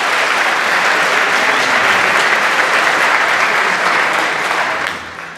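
Large crowd applauding in a hall, loud and steady, dying away over the last half second or so.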